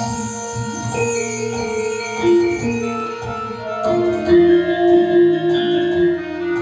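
Javanese gamelan music: metal keyed instruments ring out held, overlapping notes at fixed pitches. A flurry of sharp percussive strokes comes in about four seconds in.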